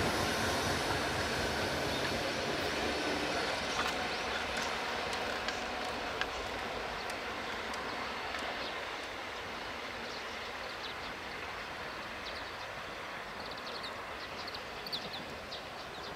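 EF64 electric locomotive hauling E493-series cars rolling along the rails away from the listener, its running noise fading steadily. A few faint high clicks come through in the second half.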